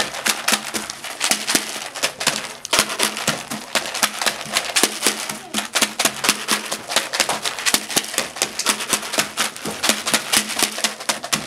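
Drumming pipes struck against a hard surface in quick succession to play a tune, each pipe giving a note of a different pitch: a steady run of sharp knocks, several a second.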